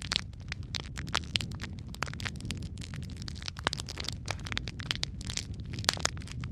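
Wood fire crackling: a dense run of sharp pops and snaps over a steady low rumble of burning logs.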